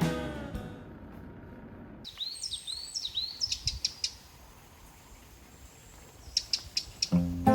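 Birds chirping: a run of short, high chirps that curve downward, then a few quick sharp chirps a little later. Background music fades out at the start and comes back in near the end.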